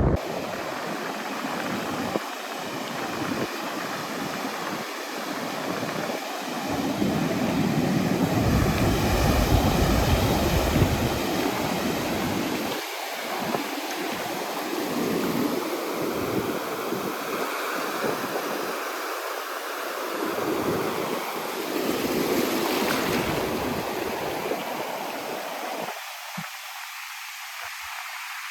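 Surf washing onto a sandy beach, the noise swelling and easing in slow waves, with gusts of wind rumbling on the microphone.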